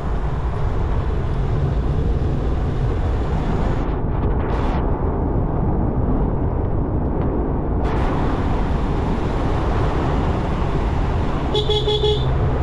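Steady rumble of road and wind noise from a moving motorcycle ride, with a short single horn beep about a second before the end.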